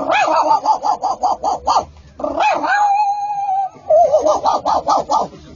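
Imitation of a small dog yapping: a quick run of high yips, then one long whine held for over a second, then another quick run of yips.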